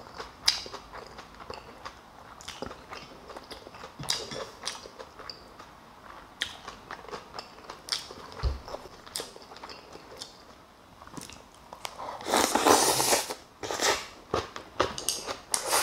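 Close-up chewing of kimchi and Spam, with wet smacks and small crunches at an irregular pace. About twelve seconds in there is a louder, noisy stretch lasting about a second.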